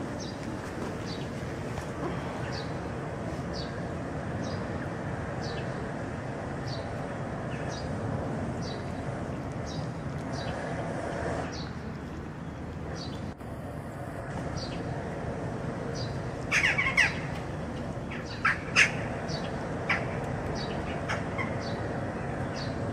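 A small bird chirping over and over, a short high chirp about every three-quarters of a second, over a steady outdoor background rumble. About two-thirds of the way through come a few louder, harsh bird calls, the loudest sounds here.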